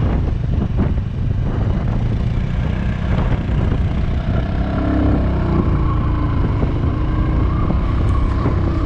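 Motorcycle engine running steadily while riding, its pitch rising gently in the second half.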